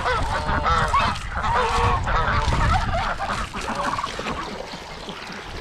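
A flock of domestic geese honking, many short calls overlapping, thinning out near the end.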